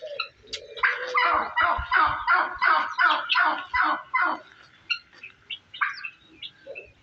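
A farmyard fowl calling a fast run of about ten harsh, evenly spaced notes, roughly three a second, that stops about four seconds in. Small birds chirp briefly throughout.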